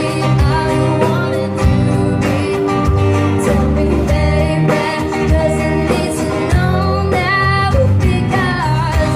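A band playing: a singer's voice carrying a melody over guitar and bass.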